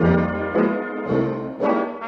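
Brass music: brass instruments playing a tune with a bass line that moves about every half second.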